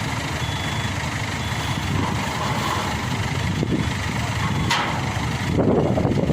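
Diesel engine running steadily with a low rumble, a sharp click a little under five seconds in, and a louder, rougher stretch near the end.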